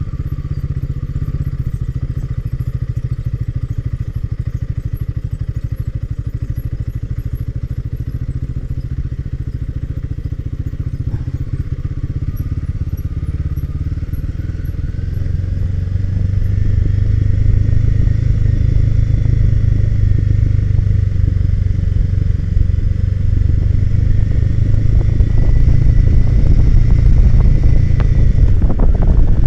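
Royal Enfield Himalayan 450's single-cylinder engine running under way on a ride, getting louder from about halfway through as the bike picks up.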